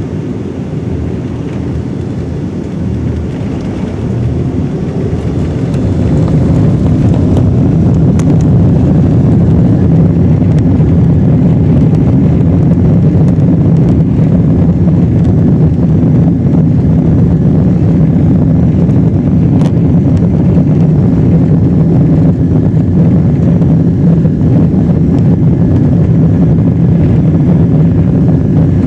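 Boeing 777-200's engines spooling up for takeoff, heard inside the cabin. The sound builds over the first five or six seconds, with a faint rising whine, into a loud, steady low rumble as the plane rolls down the runway.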